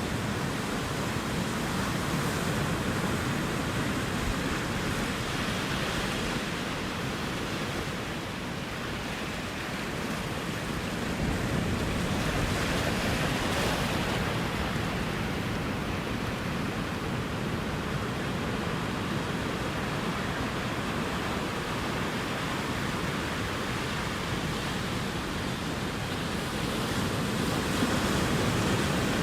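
Ocean surf: waves breaking and washing ashore as a continuous rushing, swelling slowly in loudness, a little louder near the middle and again near the end.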